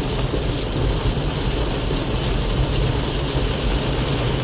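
Steady noise inside a moving car in heavy rain: a low road and engine rumble under an even hiss of rain on the car.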